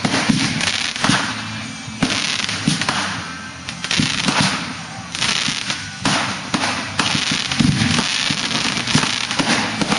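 Fireworks bursting in quick succession, with dense crackling between the bursts and a fresh loud burst about every second or two.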